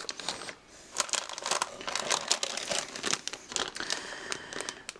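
Plastic packaging around model-kit parts runners crinkling and crackling as the pieces are handled, in a dense run of sharp rustles.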